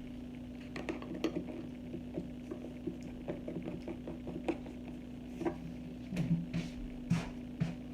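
Small irregular clicks and taps of a spoon and bowl while chili powder is added to chicken for seasoning, with a few louder clatters near the end, over a steady low hum.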